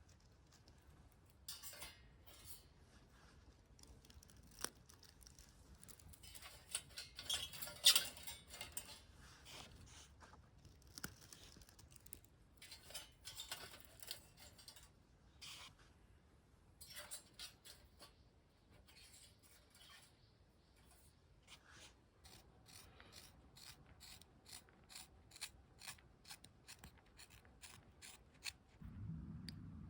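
Quiet, irregular scraping and rustling from hand work, in short strokes, with a sharper scrape about eight seconds in.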